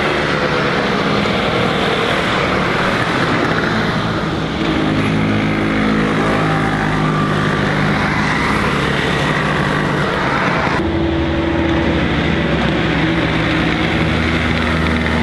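Sportbike engines running hard, their pitch shifting slightly as the revs change, with an abrupt change in the engine sound about eleven seconds in.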